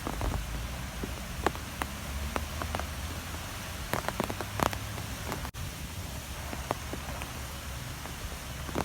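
Strong wind blowing steadily with a low rumble, dotted with scattered sharp ticks and taps like drops or debris striking a surface. The ticks cluster around four to five seconds in, and the sound drops out for an instant soon after.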